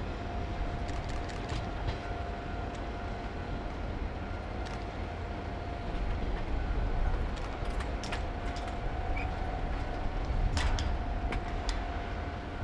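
Diesel railcars hauled slowly by a diesel locomotive rolling past: a steady low rumble with a thin steady whine, and scattered sharp clicks and squeaks from the wheels on the rails, most of them near the end.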